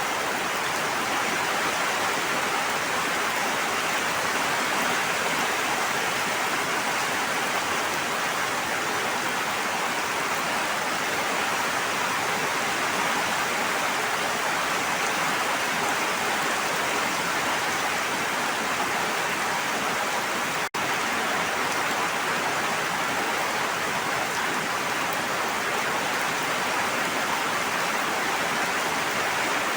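Steady, even rush of water, like heavy rain or falling water, with no single drops or splashes standing out. It cuts out for an instant about two-thirds of the way through, then carries on unchanged.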